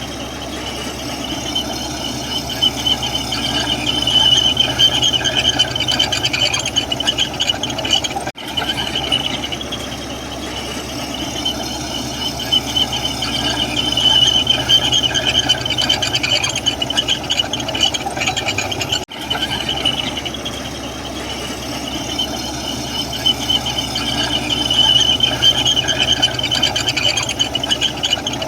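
Komatsu bulldozer working, its diesel engine running under a high, steady squeal from the steel tracks that swells and fades. The sound breaks off abruptly for an instant twice.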